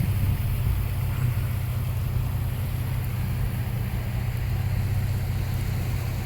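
Toyota FJ Cruiser driving through floodwater: a steady low engine and road drone.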